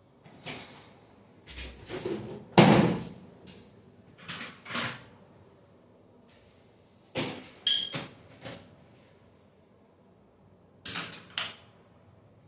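A series of sharp knocks and clunks from handling hard objects, in three groups: several in the first five seconds with the loudest about two and a half seconds in, a few more around seven to eight seconds, and a short pair near the end.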